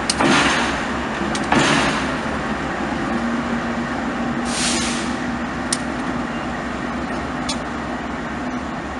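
Train with short bursts of air hissing, three of them in the first five seconds, over a steady rumble, with a low steady hum from about three seconds in and a few sharp metallic clicks.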